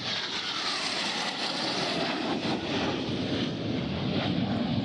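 Engine noise of a fixed-wing military aircraft flying past, a steady loud rush whose strongest part sinks from a high hiss toward a lower rumble as it goes by.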